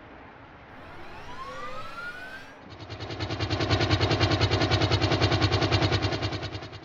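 Vehicle engine sound, most likely an added sound effect: it revs up with a rising pitch for about two and a half seconds, then settles into a loud, rapid, evenly pulsing rumble.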